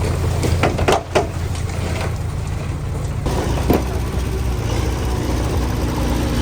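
Diesel engine of heavy earthmoving equipment running steadily, with a few short sharp knocks about a second in and one more near four seconds.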